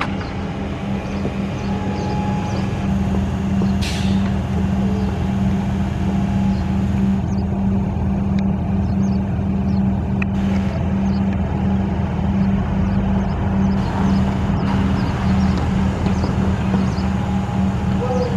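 A vehicle running steadily with a low, even hum that holds unchanged throughout, with a faint tick or two.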